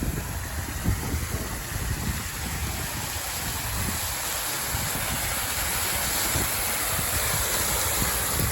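Steady hiss of heavy rain, with gusting wind buffeting the phone's microphone in a low, uneven rumble.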